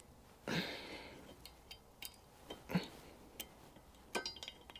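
A few light metallic clinks and knocks from metal engine parts and tools being handled, with a quick run of clinks near the end.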